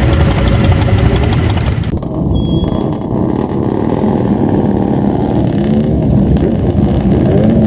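Loud vehicle engines running, mostly motorcycles, with a bright upper hiss that cuts off sharply about two seconds in. In the second half, engines rev, their pitch rising and falling.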